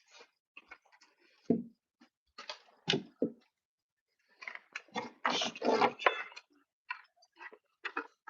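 Irregular rustling, clicks and a few soft knocks close to the microphone, like something being handled.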